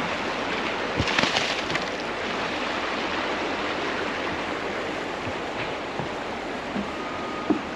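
Steady rush of flowing creek water, with a few faint knocks about a second in and near the end.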